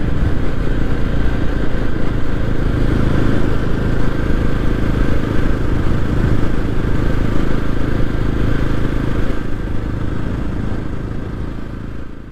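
Yezdi Roadster's single-cylinder engine running steadily as the motorcycle cruises at road speed. The sound fades out near the end.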